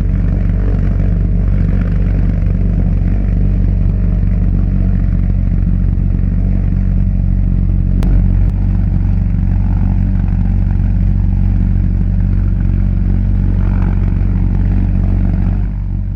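Argus pulse jet engine from a V-1 flying bomb running steadily: a loud, even, low buzz of rapid combustion pulses, with a single short click about halfway through.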